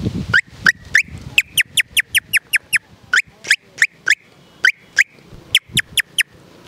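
A man imitating a myna bird's call with his voice: a rapid, irregular series of short, sharp chirps, some sweeping up and some sweeping down, with a brief pause near the middle.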